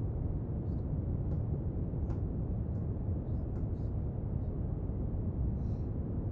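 Steady brown noise, a deep, even rumble-like hiss, with a few faint scattered clicks and scratches of study activity on top.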